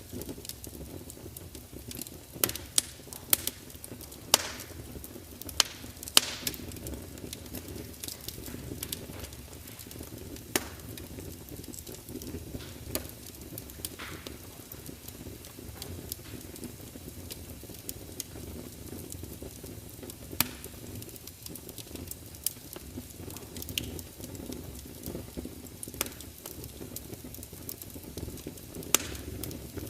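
Wood fire burning in a large fireplace: a steady low rumble of flames with irregular sharp crackles and pops from the logs, a cluster of loud pops a few seconds in.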